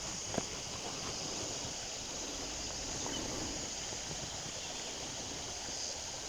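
Steady outdoor background noise: a low rumbling hiss with an even high-pitched hiss above it and a single faint tick near the start.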